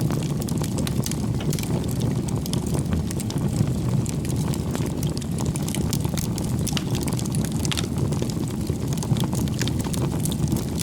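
Wood bonfire burning: a steady low rush of flame with frequent small, irregular crackles and pops from the burning firewood.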